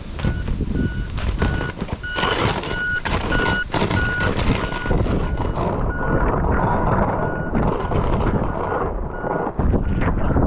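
A vehicle's back-up alarm beeping evenly, about two beeps a second, over loud wind and rumbling noise.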